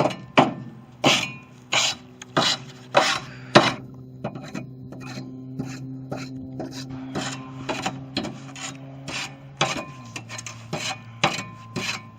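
A hand tool scraping through loose garden soil in a run of quick, rhythmic strokes, with a steady low hum underneath.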